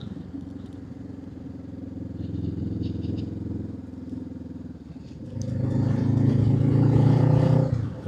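Parallel-twin motorcycle engine heard from on the bike, running steadily under light throttle. About five and a half seconds in it gets louder and pitches up slightly as the rider accelerates, then drops away as the throttle closes near the end.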